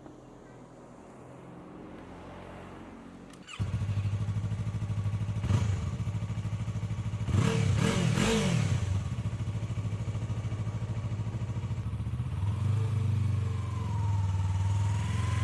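Yamaha R3 321 cc parallel-twin engine firing up about three and a half seconds in, blipped a couple of times, then settling into a steady idle: the bike runs.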